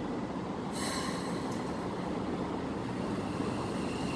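Keikyu 1000-series electric train starting to pull out from the platform. A sharp hiss comes about a second in, and a steady high motor tone sets in near the end over the low running noise.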